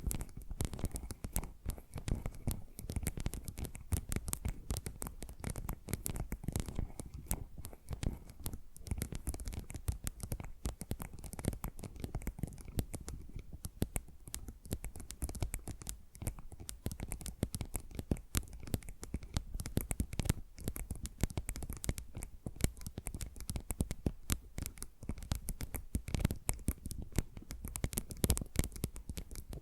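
Fingernails scratching and tapping fast and without a break on ASMR trigger objects, several recordings layered in the left and right channels.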